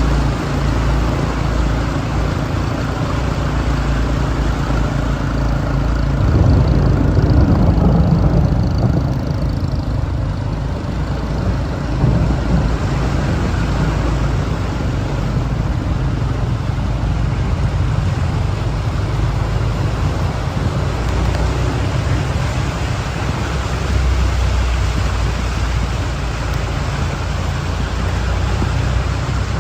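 A vehicle engine running steadily among road traffic noise, louder for a few seconds about six seconds in.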